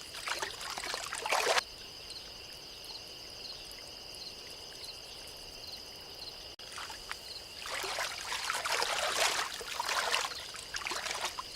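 Water splashing and trickling in two spells, one at the start and a longer one from about eight seconds in, over a steady high-pitched whine in the background.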